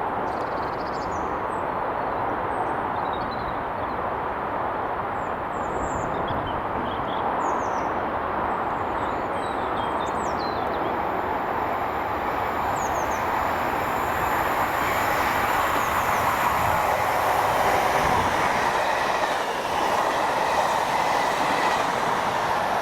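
A train running past on the line, a steady noise of wheels on rails that grows slightly louder in the second half. Short high chirps sound in the first half.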